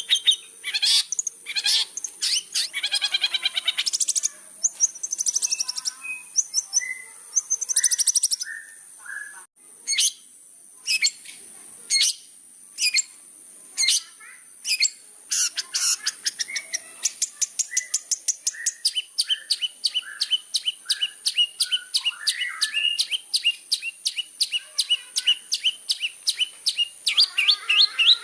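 Long-tailed shrike (cendet) singing a loud, varied song: scratchy trills and mixed notes at first, a few separate sharp notes in the middle, then a fast, even run of repeated notes at about four a second over the second half.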